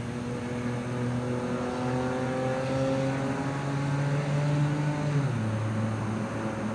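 A car engine on the street below accelerating, its pitch climbing steadily for a few seconds, then dropping suddenly about five seconds in as it shifts up a gear.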